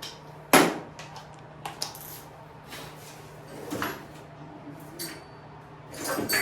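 Hand tools clanking on metal: one sharp clank about half a second in, then several lighter knocks and clicks, over a faint steady low hum.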